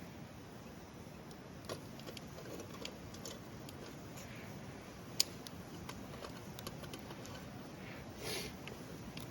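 Wood campfire crackling, with scattered irregular pops and one sharp pop about five seconds in, over a steady low rushing.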